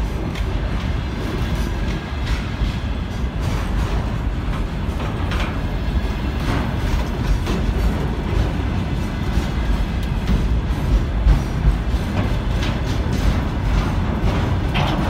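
Container wagons of a freight train rolling past at close range: a steady low rumble of wheels on rails, with scattered clicks and clanks as wheels cross rail joints.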